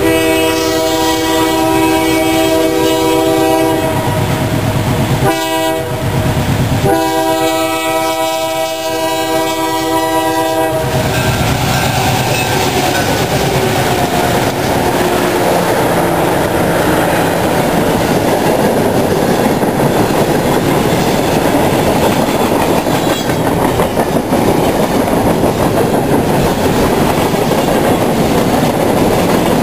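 Diesel freight locomotive horn sounding a long blast, a short one and another long one over the rumble of the approaching train. From about eleven seconds in, the locomotives pass close by and a string of hopper cars rolls past with steady wheel clatter.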